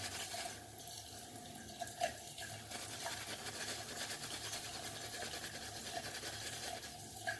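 Muhle synthetic shaving brush swirling wet soap into a lather, a faint steady swishing.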